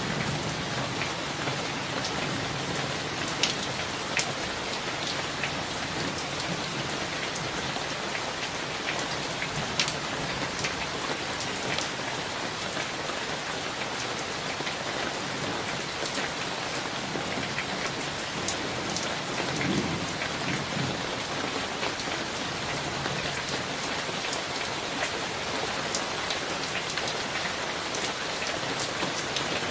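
Steady summer thunderstorm rain falling on surfaces, with scattered louder drop hits. There is a brief faint low rumble about two-thirds of the way through.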